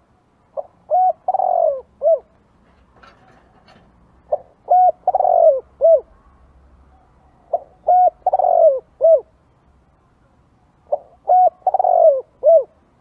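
Spotted dove cooing: four phrases about three and a half seconds apart, each a brief opening note, a short coo, a longer falling coo and a short closing coo.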